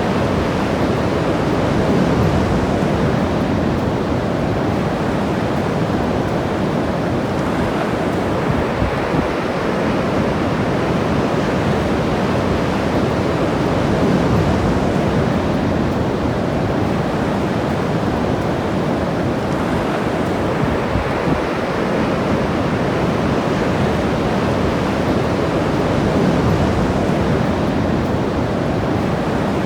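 Ocean surf washing onto a beach: a steady rushing noise that swells and eases every several seconds.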